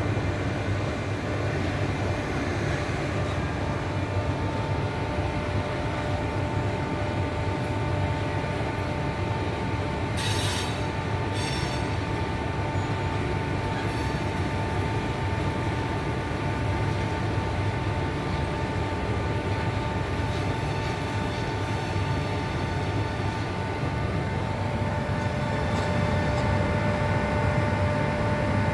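Train running on rails: a steady rumble of the wheels, with a faint steady squeal throughout. A short burst of hiss comes about ten seconds in.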